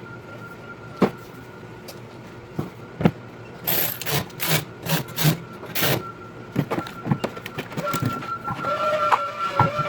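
Handling noise from grill assembly: a couple of sharp knocks of parts, then a quick run of short scraping and rustling bursts in the middle, over a faint steady high tone.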